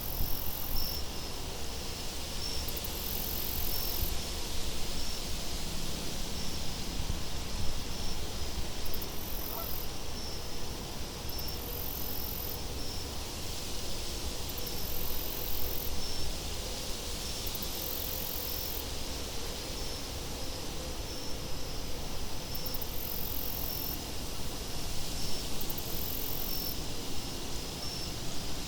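Night-time nature ambience: a steady low wind rumble with crickets chirping in a regular rhythm, and high insect trills coming and going every couple of seconds.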